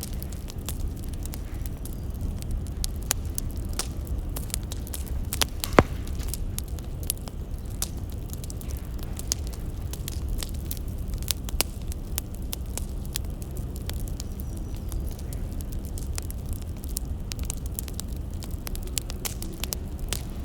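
Wood fire crackling: irregular sharp pops and snaps over a steady low rumble, with one louder pop about six seconds in.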